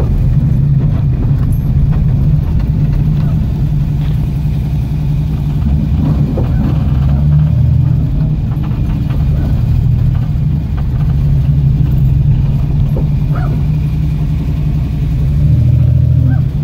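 Ford Capri race car's engine running at low revs, a steady low rumble heard from inside the cabin as the car rolls slowly.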